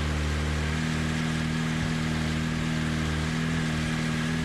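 1988 Honda CBR1000F Hurricane's inline-four engine running at a steady, unrevved speed, just brought back to life after years of sitting. It is running like crap: rough and uneven, on carburetors that are not yet adjusted.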